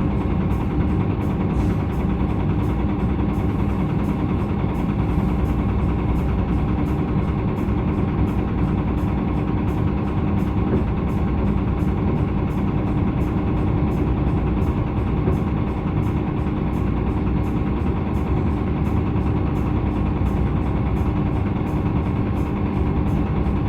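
Hyundai Green City CNG city bus's C6GB natural-gas engine running at a steady, even speed, with a constant low hum and no revving.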